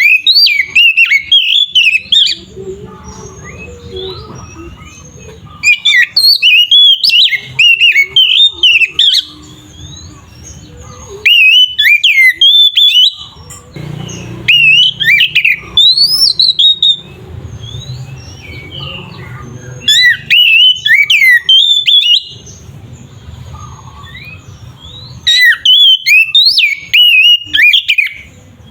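Oriental magpie-robin (kacer) in full, excited song: bursts of rapid, varied whistles and harsher notes, each lasting two to three seconds, about six times, with short pauses between them. Between bursts there is a low background hum. This is the combative song that keepers use to provoke other male kacer into singing.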